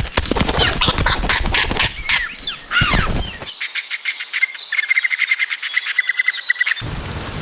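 Woodpecker pecking wood: a dense run of sharp taps mixed with short bird calls that slide in pitch. About halfway through comes a fast, even tapping with a repeated chattering call over it, which cuts off suddenly near the end, giving way to a steady rain-like hiss.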